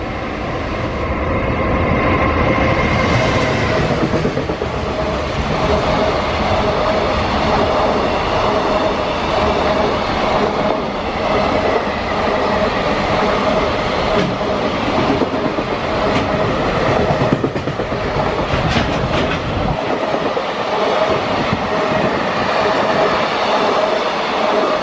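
Freight train passing at speed: wheels clattering over rail joints, with a steady whine on top. The sound swells over the first couple of seconds and then stays loud.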